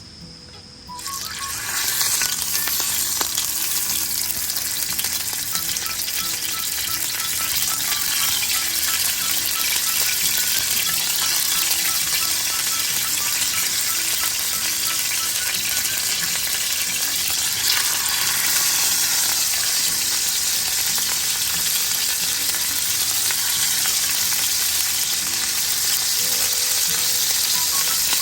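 Food sizzling in a hot pan: a steady, dense frying hiss that starts suddenly about a second in.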